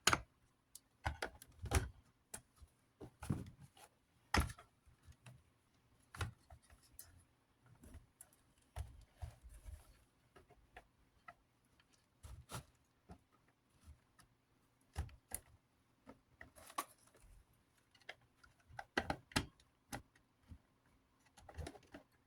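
Scattered, irregular light clicks and knocks of hand work on a box fan: needle-nose pliers and plastic fan parts being handled while stuck motor wires are worked up through the housing.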